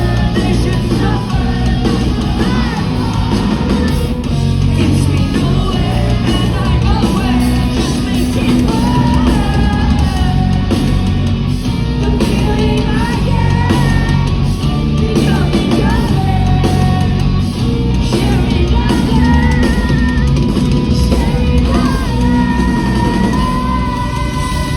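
Live rock band playing loud, with drums, guitars and a singer whose voice slides between held high notes.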